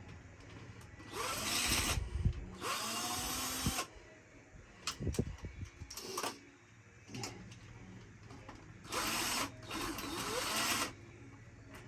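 Power drill spinning a socket on bolts, run in four short bursts in two pairs, each spinning up with a rising whine, with clinks of metal on metal between the pairs.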